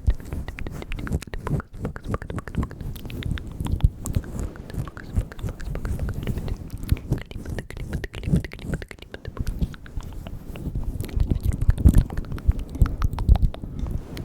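Close-miked ASMR mouth sounds: rapid, irregular wet clicks and smacks of the lips and tongue, the 'bugs' mouth-sound trigger.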